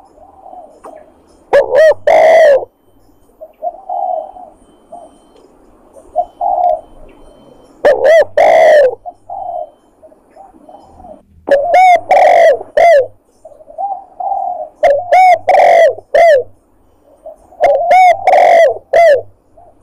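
Spotted dove (tekukur) cooing as a hunting lure call: loud, repeated coo phrases every few seconds, loud enough to distort, with fainter coos in between.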